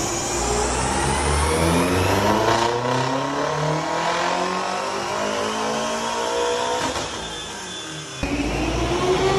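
F12 BMW M6's twin-turbo 4.4 V8 with a decatted exhaust, revving up under load on a rolling-road dyno, its pitch climbing steadily through a full-throttle pull. About seven seconds in the sound eases off, and just after eight seconds a new rise in revs starts suddenly.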